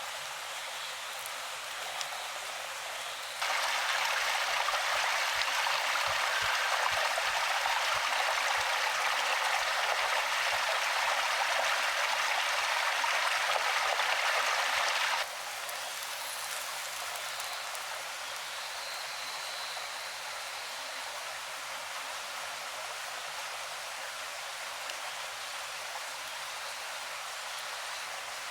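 Stream water running, a steady hiss. It gets abruptly louder a few seconds in and drops back just as suddenly about twelve seconds later.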